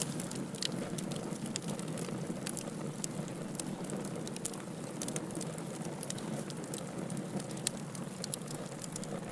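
Wood fire burning in a fireplace: a steady hiss and low rumble of flames with sharp, irregular crackles and pops from the burning logs, several a second.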